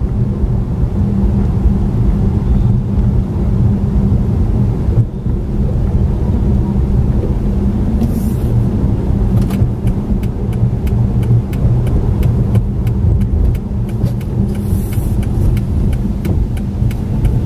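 Car driving, heard from inside the cabin: a steady low rumble of engine and road noise. From about ten seconds in, a regular ticking runs for a few seconds.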